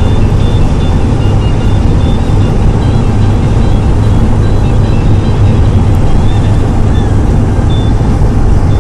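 Engine and road noise heard inside an old truck's cab while driving through deep snow: a loud, steady low drone.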